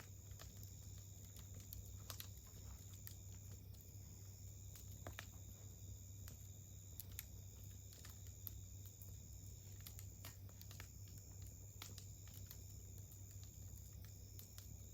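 Faint campfire crackling: irregular sharp pops and ticks of burning wood, a few every second. Under it runs a steady high-pitched insect trill.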